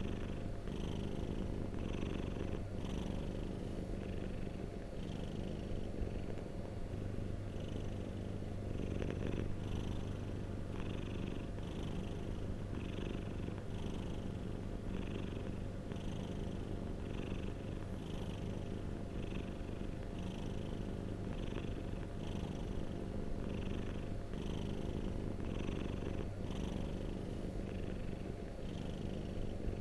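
Domestic cat purring steadily and continuously, a dense low rumble with a fainter, higher rasp recurring about once a second.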